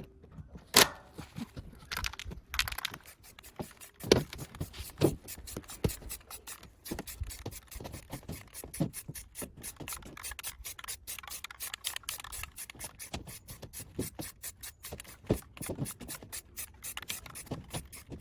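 Metal parts of a wood-burning stove being handled: steady irregular scraping and clicking, with a few louder knocks, as a removable cleaning part is unlatched and worked out.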